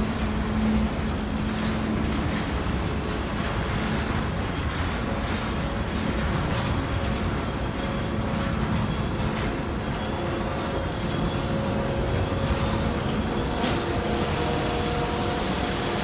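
Union Pacific manifest freight train rolling through, a steady rumble of wheels on rail with a few faint steady tones on top.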